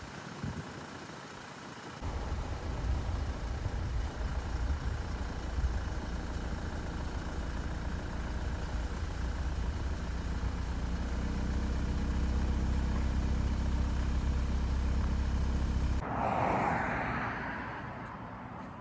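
Heavy truck's diesel engine growing louder as it approaches, its low steady engine note strongest toward the end. Near the end the sound changes abruptly to a short swell of tyre and wind noise that fades away.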